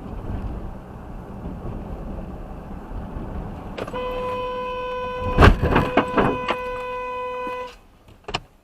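Steady road rumble from a moving car. Then a car horn sounds and is held for almost four seconds. Partway through, a loud crash impact hits, followed by a few more knocks, and the horn then cuts off.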